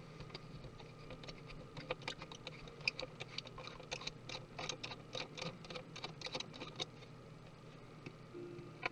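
A quick, irregular run of small clicks and taps, densest in the middle, then one sharper knock near the end: small tools and parts being handled on a 2017 MacBook Pro being taken apart.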